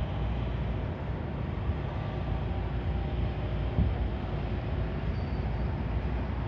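Boeing 757's Rolls-Royce RB211 turbofan engines running for takeoff: a steady deep rumble with faint steady tones over it, and one brief thump a little past the middle.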